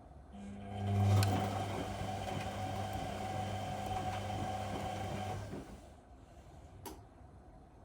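Whirlpool Indiana 1400 washing machine running in a short burst: a steady hum starts about half a second in, lasts about five seconds and stops. A single click follows near the end.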